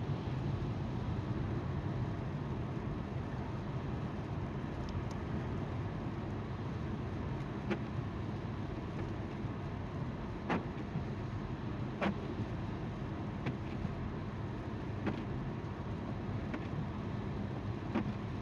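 Tyre noise on the road and engine hum heard from inside a moving car: a steady low rumble, with a few sharp ticks scattered irregularly through it.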